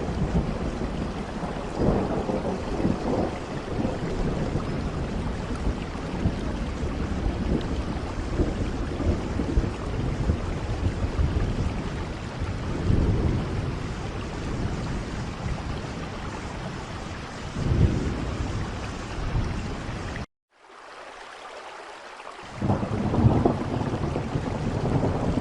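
Steady rain falling, with low rolls of thunder swelling up several times. About twenty seconds in, the sound cuts out abruptly and returns about two seconds later.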